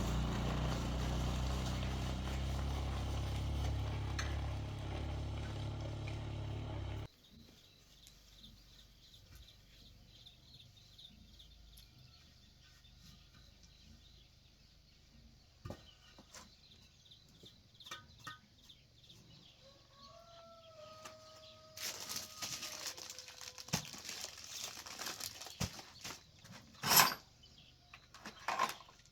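Motorbike engine running steadily for about seven seconds, then cutting off suddenly. After a quiet stretch, a chicken calls faintly about twenty seconds in, followed by scuffling and knocking noises with one louder burst near the end.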